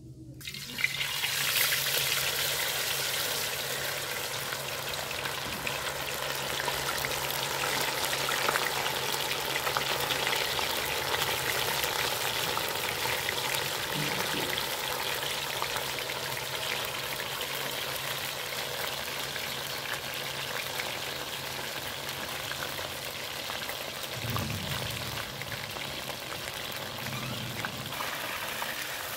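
Paneer cubes frying in hot mustard oil in an iron kadhai: a steady sizzle that starts sharply about a second in and keeps going.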